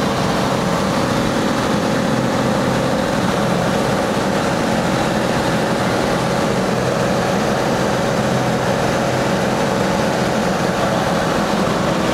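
Cessna light aircraft's engine and propeller droning steadily in flight, heard from inside the cabin.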